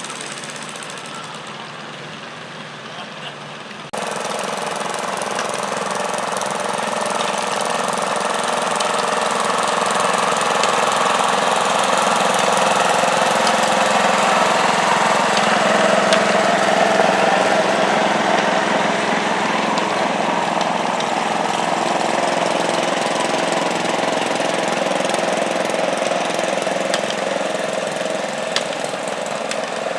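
Garden tractor engine running hard under load during a pull, a steady engine noise that jumps suddenly in level about four seconds in and swells toward the middle before holding steady.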